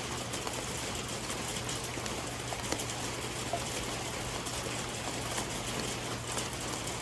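Steady heavy rain falling, with scattered individual drops ticking close by.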